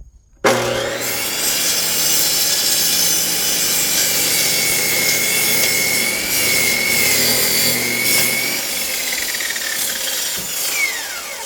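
Electric high-speed cut-off saw with a saw blade cutting through a firewood log: loud, steady sawing over the motor's whine, which starts suddenly about half a second in and drops away in pitch near the end as the blade spins down.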